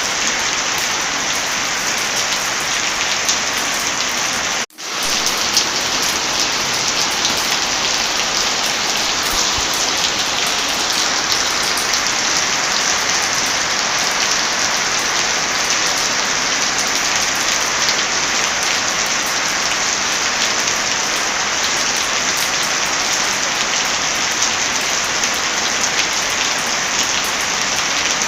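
Heavy rain falling steadily. The sound cuts out for a split second about five seconds in and comes straight back.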